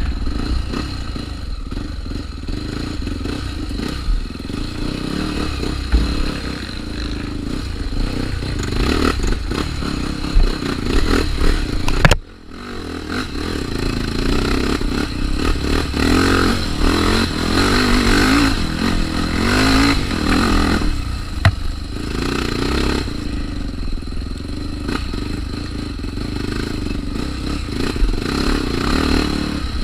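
Trail motorcycle engine running off-road, the revs rising and falling, with clattering and scraping over rough ground. The sound cuts out abruptly for a moment about twelve seconds in.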